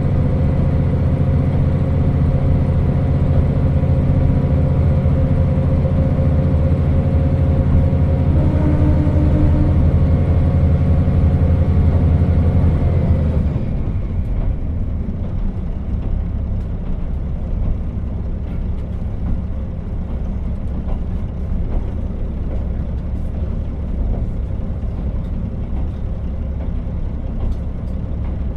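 KiHa 40 diesel railcar heard from inside, its diesel engine running under power with a steady drone. About halfway through the engine note drops away suddenly as power is shut off, leaving the car coasting with a low wheel-and-rail rumble and occasional faint clicks.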